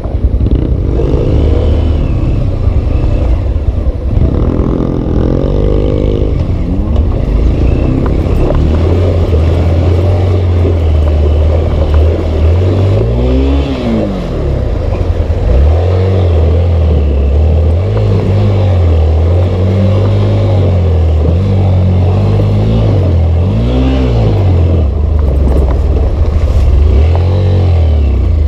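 Carburetted single-cylinder dirt bike engine running hard under load, its revs repeatedly climbing and dropping, with a few sharp rev rises about halfway through and again near the end.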